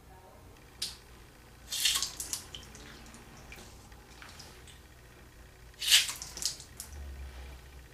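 Water squirted into an ear in short spurts, splashing and dripping as it flushes out earwax: a small spurt about a second in, then two stronger ones, near 2 and 6 seconds.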